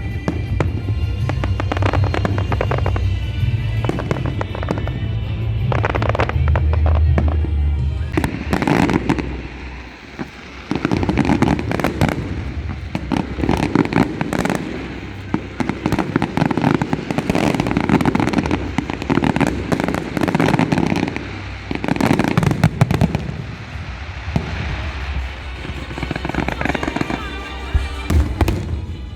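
Fireworks display: a continuous run of bangs and crackling, with music playing along with it and a brief lull about ten seconds in.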